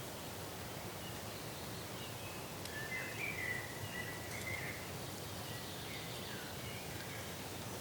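Steady outdoor background hiss with a few short, high chirping calls clustered about three to five seconds in.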